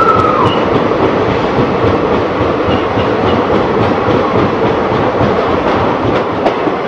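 Passenger train running at speed through a tunnel, heard from an open coach door: a loud, steady rumble of wheels on the rails with a faint clickety-clack, echoing off the tunnel walls. A brief high tone rises and falls right at the start.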